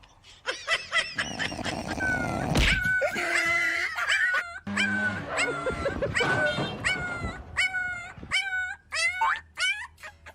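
A dog whining and yipping in a run of high-pitched calls that bend in pitch, coming quicker and shorter near the end.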